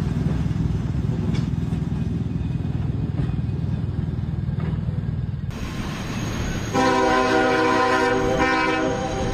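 A train running with a steady low rumble; after an abrupt cut, a train horn sounds one long blast of about two seconds near the end.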